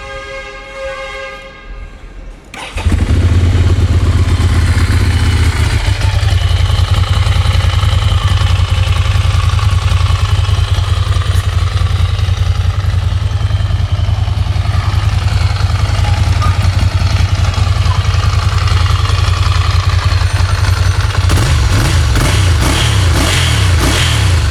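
2014 Ducati Monster 795's air-cooled L-twin engine starting about three seconds in, after a steady humming tone, then idling loud and steady. Its note wavers near the end.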